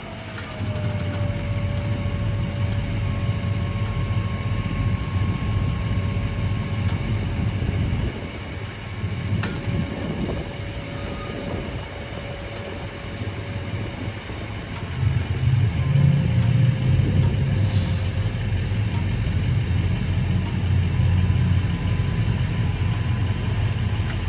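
Truck engine running with road noise: a steady low rumble that grows louder about fifteen seconds in, under a faint steady whine, with two short clicks.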